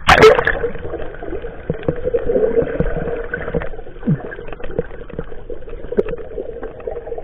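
Fishing boat engine running steadily, with scattered knocks, the loudest one right at the start.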